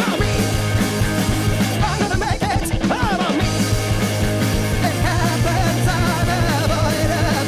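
Live punk-noise band playing loud: distorted guitars, bass and drums, with wavering pitched lines over a steady low bass.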